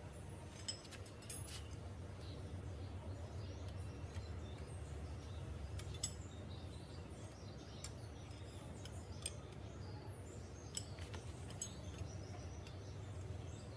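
Faint steady low hum with a few short, sharp light clinks scattered through, the loudest about six seconds in.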